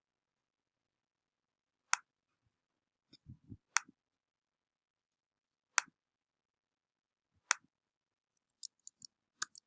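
Computer mouse clicking: single sharp clicks about every two seconds, then a quicker run of clicks near the end, each one reloading a web page. A couple of soft thumps come a little after three seconds in.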